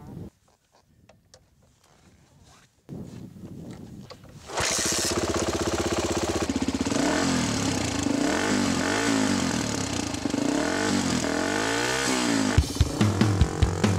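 Honda XR dirt bike's single-cylinder four-stroke engine starting: it is cranked about three seconds in and catches a second and a half later. It then runs and is revved up and down several times. Near the end a steady low beat joins.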